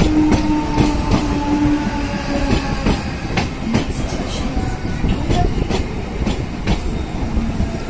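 Mumbai suburban local train (electric multiple unit) running along the track: a steady heavy rumble with irregular sharp clicks of the wheels over the rail joints. A steady humming tone sounds for the first two seconds or so.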